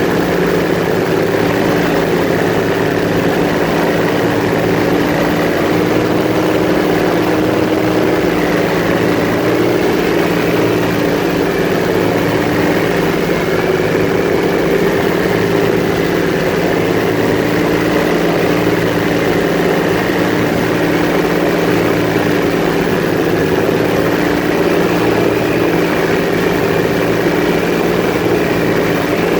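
Airboat's engine and open air propeller running steadily and loudly, its pitch holding nearly constant.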